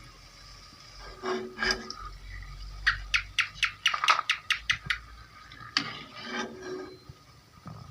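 Metal utensils clinking and knocking against a cooking pot: a couple of clattering knocks, then a quick run of about a dozen light taps at roughly four a second, then a few more knocks.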